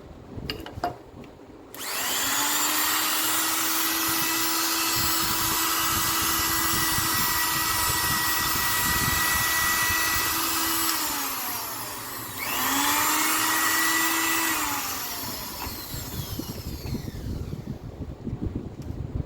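Makita M9510 angle grinder running unloaded: the motor whines up to speed, runs steadily for about nine seconds, and is switched off and coasts down. It is then switched on again for a short second run that also winds down.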